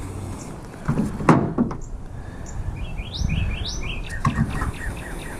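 Bird chirping: a quick series of short rising chirps a little past halfway, with a brief low murmur from a person about a second in.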